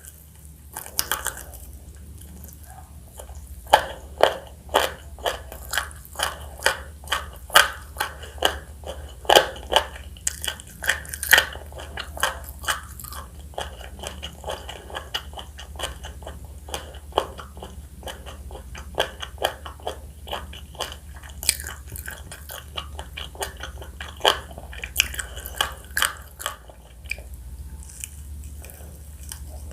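Close-miked bites into crispy spicy fried chicken: the crust crunching and crackling in quick, irregular clicks, with chewing throughout. The crunching is densest in the first half and thins out later.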